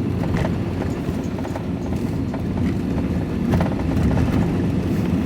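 Van engine and road noise heard from inside the cab while driving, a steady low rumble with a few irregular light knocks and rattles.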